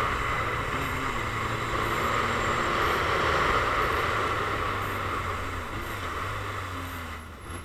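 Motorcycle riding along, its engine running steadily under a loud rush of wind over the microphone; the rush eases off near the end as the bike slows.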